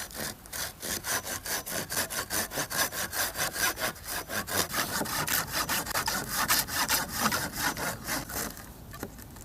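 Hand saw cutting through a thick stick of wood in quick, even back-and-forth strokes, about four or five a second. The strokes stop shortly before the end, as the piece is cut through.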